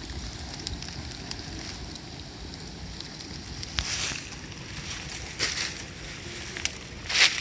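Bonfire burning with a steady low rumble, broken by scattered sharp crackles and pops and a few short hissing bursts, the loudest near the end.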